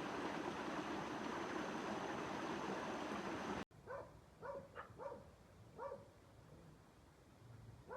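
Steady rush of flowing water, cut off abruptly a little past the middle; then a dog gives about six short yelps, spaced unevenly over the next few seconds.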